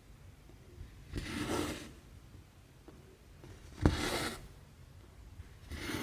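Needle and thread being worked through cross-stitch fabric: three rustling swishes of thread pulled through the cloth, about two and a half seconds apart. The second opens with a sharp tick as the needle pokes through.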